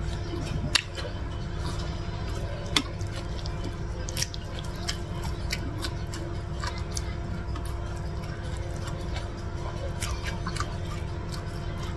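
Eating sounds: scattered sharp mouth clicks and smacks of someone chewing chicken and rice eaten by hand, the two loudest about a second and three seconds in, over a steady low hum.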